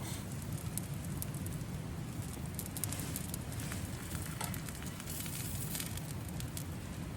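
Wood campfire burning, with scattered sharp crackles and pops over a low steady rumble.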